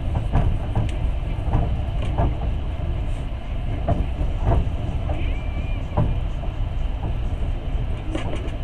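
A passenger train running along the line: a steady low rumble of wheels on rails, with irregular knocks as the wheels pass over rail joints, and a brief high tone about five seconds in.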